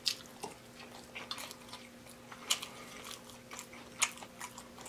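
Close-miked chewing and wet mouth sounds of a person eating a spoonful of fried rice, with soft smacking clicks scattered through. The sharpest clicks come about two and a half seconds in and again about four seconds in.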